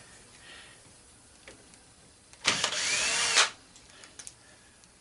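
Power drill running for about a second, about halfway through, backing a screw out of an angle grinder's gearbox housing. A few light clicks follow.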